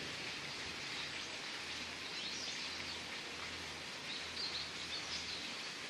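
Small birds chirping faintly in two short bouts, over a steady outdoor background hiss with a low hum underneath.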